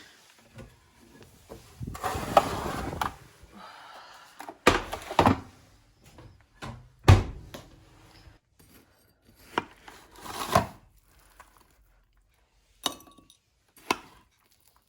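Crockery and cutlery being handled: a scraping stretch about two seconds in, then a string of separate knocks and clinks as dishes and spoons are set down and tapped, typical of crumble being dished up.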